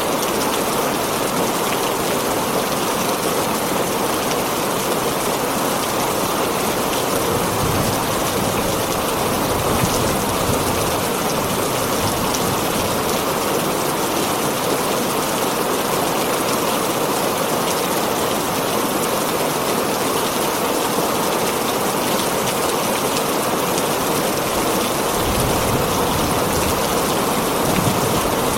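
Heavy rain drumming steadily on a tin roof, with a brief low rumble about a third of the way in and another near the end.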